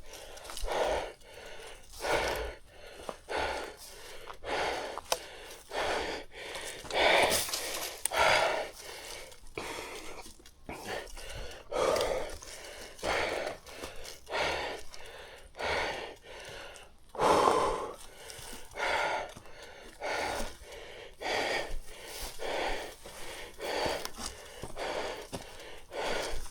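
A man breathing hard, about one heavy breath a second: out of breath from the exertion of climbing a steep trail.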